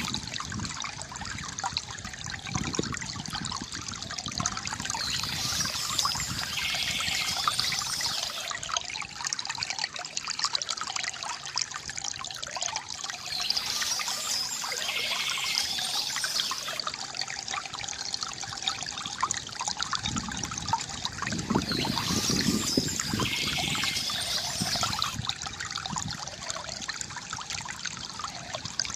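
River water gurgling and trickling steadily over stones.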